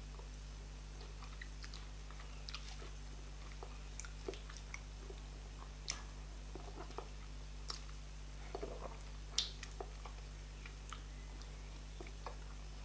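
Close-miked eating sounds of a mouthful of garri fufu with okra soup and meat: chewing with scattered lip smacks and small mouth clicks, the sharpest about nine seconds in, over a faint steady low hum.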